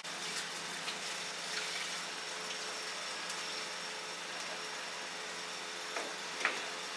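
A steady mechanical whir, like a small motor or fan running, with a few sharp clicks and clinks over it, the loudest about six and a half seconds in.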